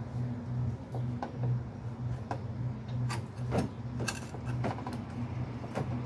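Small Craftsman garden tractor engine idling steadily, with scattered clicks and knocks of metal being handled.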